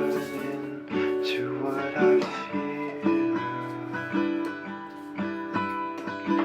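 Background music: acoustic guitar playing strummed and plucked chords, with no singing.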